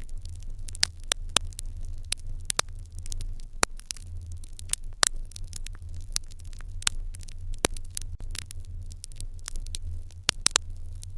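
Fire in an irori hearth crackling, with many irregular sharp snaps and a few louder pops over a steady low rumble.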